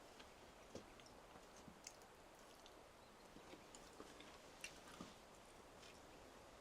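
Near silence: faint room tone with scattered, irregular small clicks and ticks.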